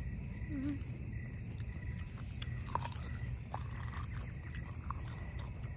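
Someone chewing crisp fried puffball mushroom: a few soft crunching clicks, spread out, over a steady low rumble and a faint steady high whine.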